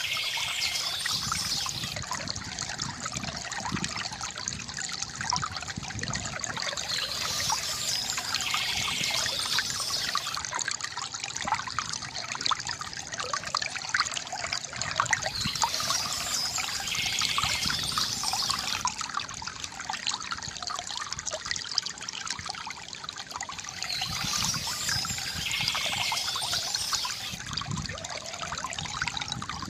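A stream trickling and babbling steadily, with a bird singing a short high phrase about every eight or nine seconds.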